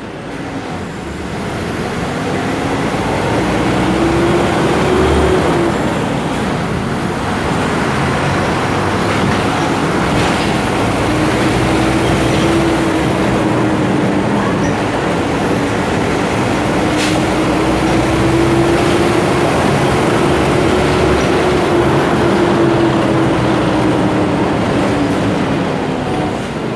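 Volksbus 17-230 OD bus's diesel engine running under way, with steady mechanical noise and an engine tone that rises and falls about three times.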